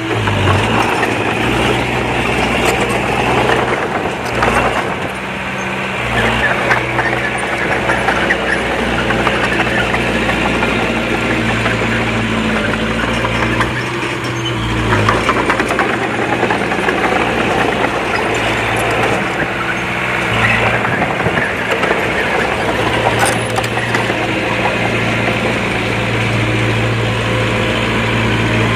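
Diesel engine of a Komatsu D20P bulldozer running under load, with a steady mechanical clatter over it. Its pitch and level dip and recover a few times.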